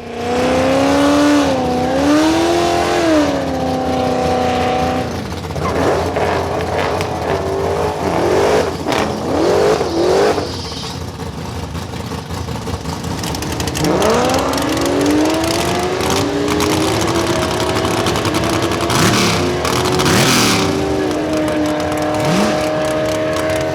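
Car engines accelerating hard, the engine note climbing in pitch and dropping back at each gear change, several times over.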